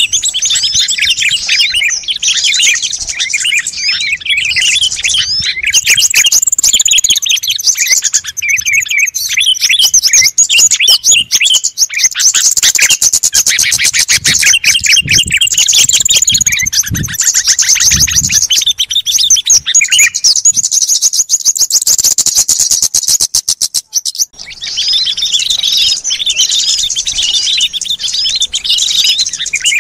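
Many small songbirds chirping and twittering at once, their calls densely overlapping, with stretches of fast buzzy trills in the middle and a brief drop about four-fifths of the way through. It is a layered bird-lure (pikat) recording made to call in wild small birds.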